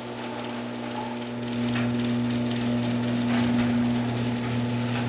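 Genie garage door opener running, its motor giving a steady hum that grows louder about a second and a half in as it moves a 16x7 uninsulated Clopay door, with a few faint clicks. It is starting to chatter a little, as its lubrication wears off.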